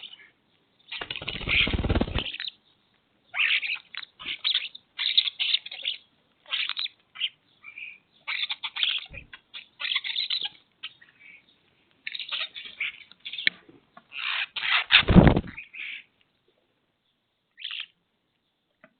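Small birds chirping and calling in many short bursts. There are two louder, fuller noises, about a second in and around fifteen seconds in, which fit a flurry of flapping wings.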